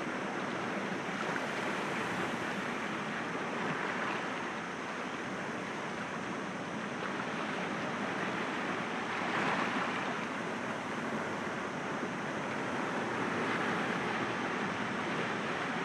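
Sea waves breaking gently against rocks, a steady wash of surf that swells a little louder about nine seconds in and again near the end.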